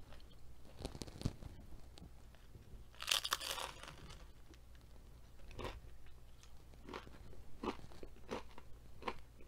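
A loaded nacho tortilla chip bitten with one sharp, loud crunch about three seconds in, then crunchy chewing at about two or three chews a second.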